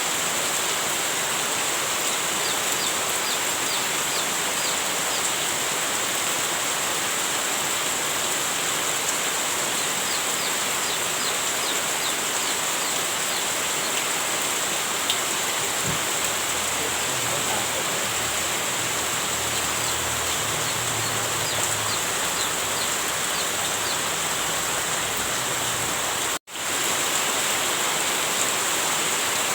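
Heavy rain falling steadily, a dense even hiss. It cuts out for an instant about 26 seconds in, then carries on unchanged.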